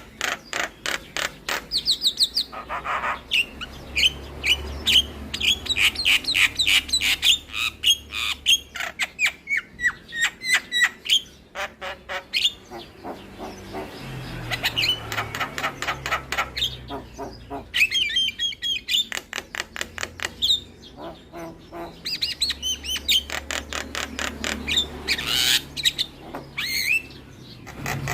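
Javan myna singing a long, varied song: fast rattling runs of short chattering notes mixed with whistles and harsh squawks, pausing briefly a few times.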